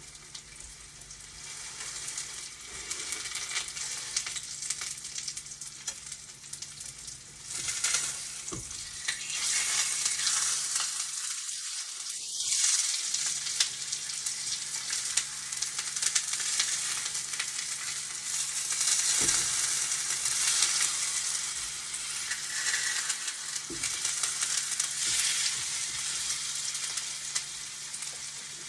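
Food sizzling in a hot frying pan as it is stir-fried. The sizzle builds over the first few seconds, then swells and eases, with a few short knocks.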